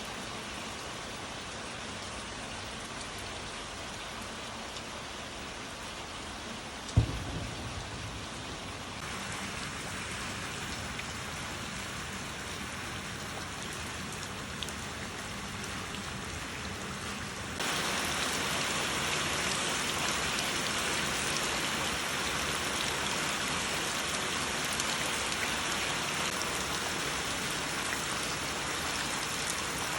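Steady rain falling, an even hiss throughout. A single sudden low thump about seven seconds in, and the rain grows louder in two abrupt steps, at about nine and eighteen seconds.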